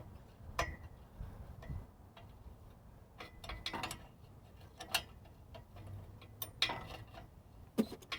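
Wrench clicking and clinking against the exhaust bolts and fittings under a car: a dozen or so irregular metal taps, some with a short ring.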